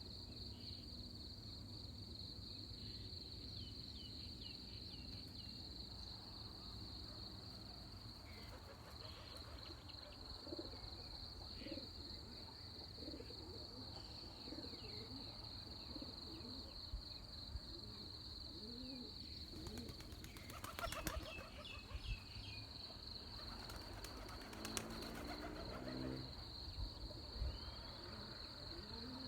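Dawn chorus: a steady high insect drone, scattered bird chirps and low dove-like cooing calls. About two-thirds of the way through come two short bursts of rapid rattling.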